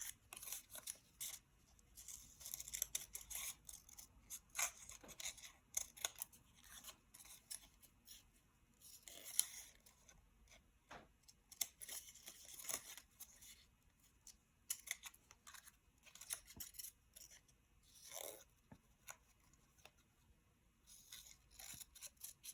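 Scissors snipping through paper in faint, irregular short cuts, with the paper rustling as it is turned while a small shape is cut out.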